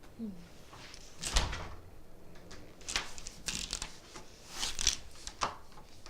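A few separate knocks and bumps, like a door or furniture being handled; the loudest comes about a second in.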